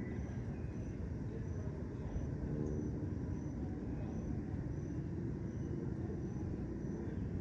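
Steady low rumble of distant city traffic, with a cricket giving a short, high chirp about twice a second.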